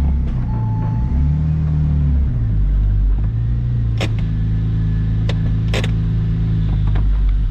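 2004 Porsche 911 Turbo's twin-turbocharged flat-six running at low revs, its pitch shifting a little in the first few seconds, with a few sharp clicks around the middle. The engine has a vacuum leak that makes it idle unevenly, which the owner puts down to a damaged intercooler pipe.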